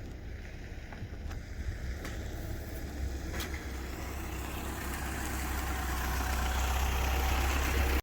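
Engine and road noise heard from inside a moving vehicle: a steady low rumble with a rushing haze that grows louder toward the end, and a few faint clicks.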